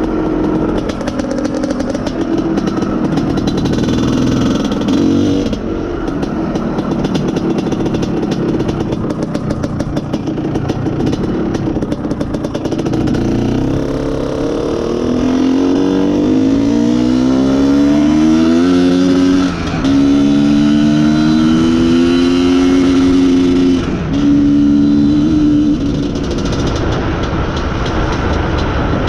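IZh Planeta Sport single-cylinder two-stroke motorcycle engine under way. Its note climbs in pitch as it accelerates, breaking and dropping twice in the second half at the gear changes, then settles to a steadier, lower note near the end.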